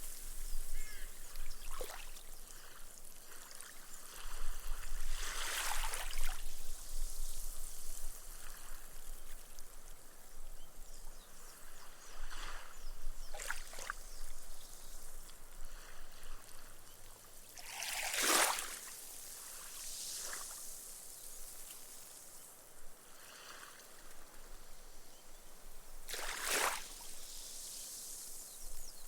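Small, gentle waves washing up a sandy beach, each wash ending in a fizzing hiss as the water soaks into the sand and the foam bursts. Four washes come several seconds apart, the loudest about two-thirds of the way through.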